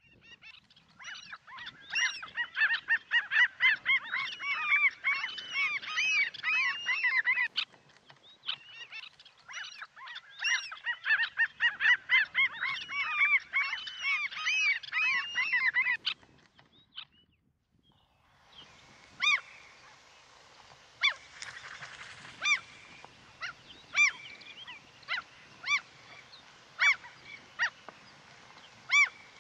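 A flock of birds calling: a dense chorus of many short, overlapping calls in two stretches of several seconds, split by a brief break. After a lull, single sharp calls come about once a second over a steady hiss.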